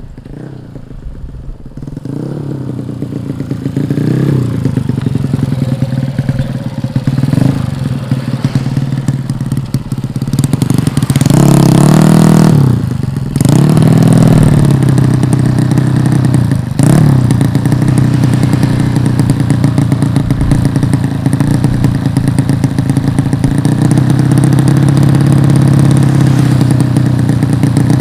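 130cc drag-racing motorcycle engine running on the tuning stand, revved in several short blips, the biggest about halfway through, then settling to a steady fast idle near the end.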